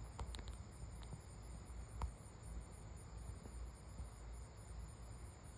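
Faint insect chorus: a steady high-pitched buzz with a rapid, evenly pulsing trill above it, and one soft click about two seconds in.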